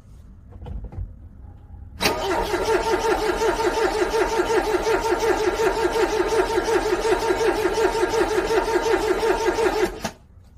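Car starter motor cranking a cold engine in a steady pulsing rhythm, about four to five beats a second, for about eight seconds. The engine never fires, and the cranking cuts off suddenly. A few faint clicks come just before it.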